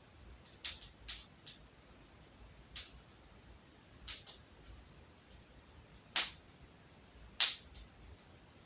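Wood fire crackling in a fireplace: sharp, irregular snaps and pops from the burning wood, a few quiet ones early and the two loudest about six and seven and a half seconds in.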